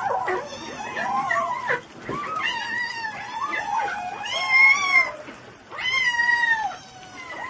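Cat meowing in a series of long, drawn-out, wavering calls with short pauses between them.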